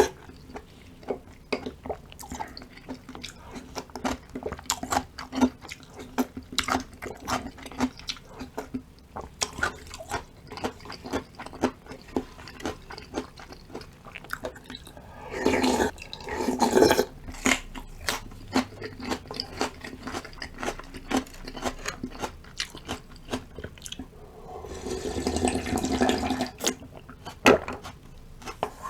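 Close-up eating sounds of yukgaejang soup with radish kimchi: steady chewing with many small crunches and clicks, and two longer wet slurps of soup, one around the middle and one near the end.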